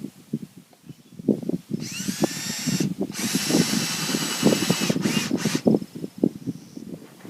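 Power drill driving screws in two runs, the motor whining up to speed at the start: a short run of about a second, then, after a brief pause, a longer one of about two and a half seconds. Scattered low knocks and handling thumps around it.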